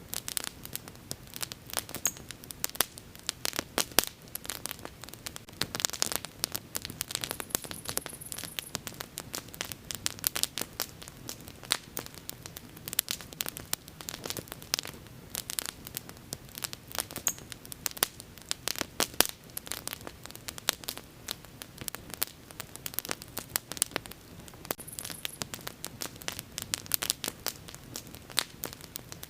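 Wood fire burning, with dense, irregular crackles and pops over a low, steady hiss.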